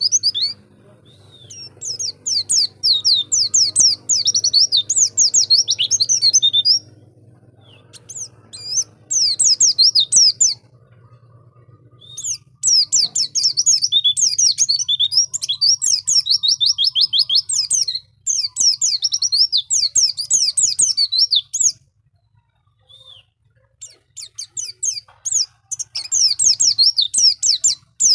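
White-eye (pleci) singing long, rapid twittering phrases of high chirping notes, several seconds at a time, with short pauses between phrases.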